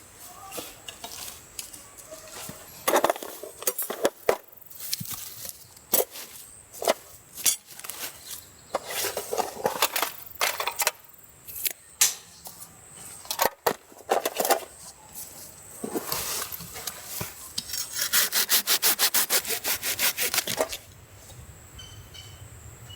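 Silky GomBoy folding hand saw cutting a wood branch: uneven back-and-forth strokes with a few sharp knocks, then a fast, even run of strokes near the end that stops suddenly.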